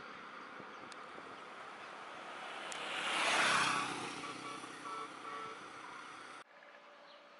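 Outdoor background noise with a vehicle passing by: a rushing sound swells to a peak about halfway through and fades away, then the sound changes abruptly near the end.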